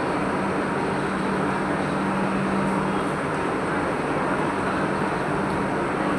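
Steady running noise of a train with a constant low hum, unchanging throughout.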